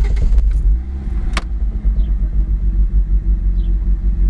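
Turbocharged 4G63 four-cylinder of an Eagle Talon AWD running just after its first start, the revs dropping and settling into a steady idle. There is a single sharp click about a second and a half in.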